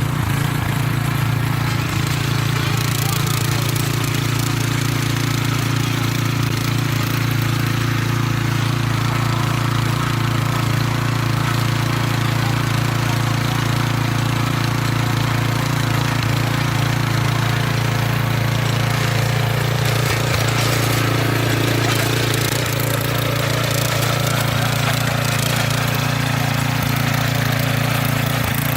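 Single-cylinder 170 petrol engine on a walk-behind harrow running steadily under load while tilling stony ground.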